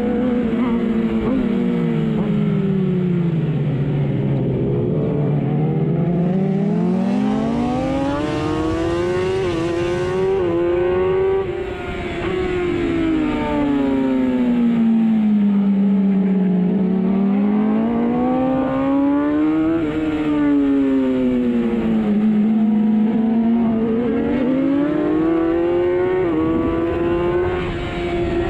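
Racing superbike engine heard onboard, rising in pitch as it accelerates and falling away as the throttle closes for corners, its pitch swinging up and down several times. There are short dips in loudness about a third of the way in and again near the end.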